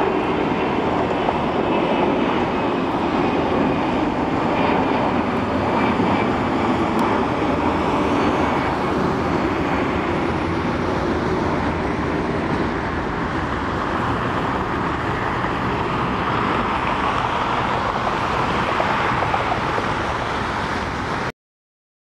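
Jet engine noise from an Airbus A340-300's four CFM56 turbofans, a loud, steady noise that cuts off suddenly near the end.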